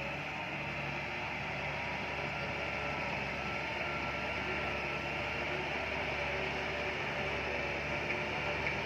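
Bulldozer's diesel engine running steadily, with a faint wavering whine above it.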